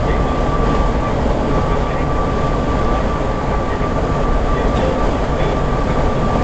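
Steady road and tyre noise heard inside a car cruising at highway speed, a low rumble with a thin steady high tone over it.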